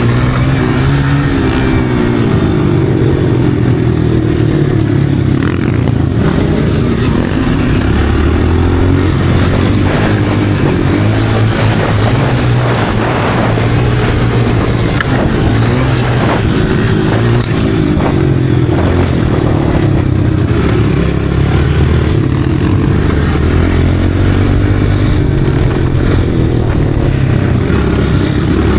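Motocross dirt bike engine being ridden, its pitch climbing and dropping again and again as the throttle is worked, with a few scattered knocks.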